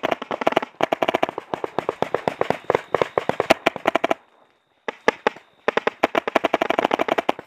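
Paintball markers firing in rapid strings of shots, the nearest a compressed-air Tippmann X-7 Phenom. Firing breaks off a little past halfway, a few shots follow, then another fast string runs on.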